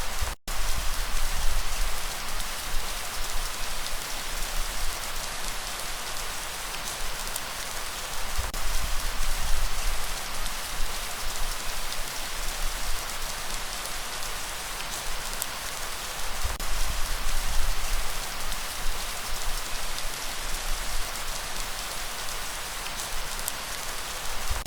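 Steady heavy rain falling, an even hiss with scattered drop ticks, under a low rumble that swells and fades several times. The sound cuts out for an instant just under half a second in.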